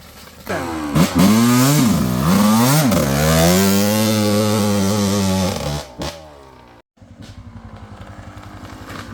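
Yamaha YZ125's 125cc single-cylinder two-stroke engine revving hard: it rises, dips and rises twice, holds high revs for a few seconds, then falls away. After an abrupt break it runs at low revs with a quieter, even putter.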